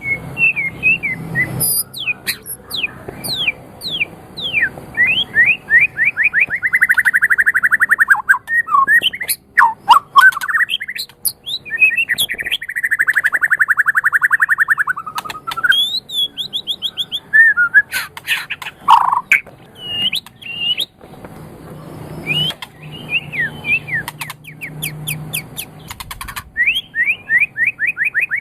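White-rumped shama (murai batu) singing a varied, continuous song: quick whistled phrases broken by sharp clicks, and long rapid trills of repeated notes lasting a few seconds each.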